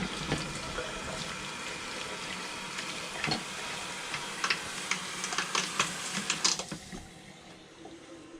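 Water running out of a travel trailer's plumbing as the antifreeze is flushed from the lines, with scattered sharp clicks and knocks; the flow quiets about seven seconds in.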